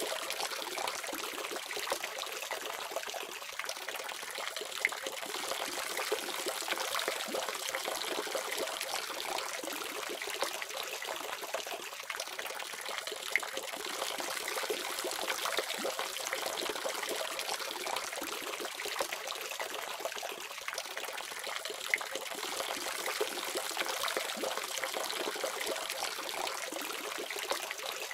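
Water running steadily from a faucet, an even splashing trickle with small drips and splashes scattered through it.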